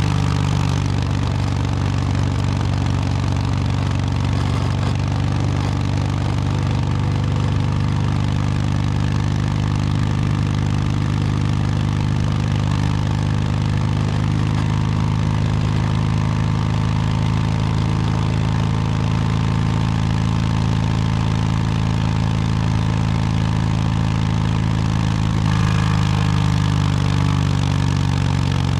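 Harley-Davidson Low Rider S's Milwaukee-Eight 117 V-twin running steadily through an S&S Superstreet 2-into-1 exhaust, most likely idling, with the note shifting slightly near the end.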